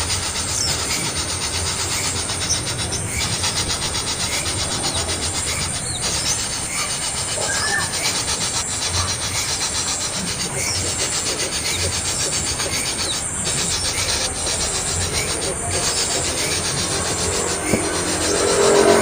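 A young bird giving raspy, continuous begging calls, crying to be fed more lizard.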